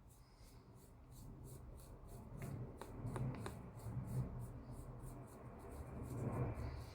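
Paintbrush rubbing black weathering powder onto a plastic model part: faint, irregular scratchy strokes, with a few light clicks in the middle.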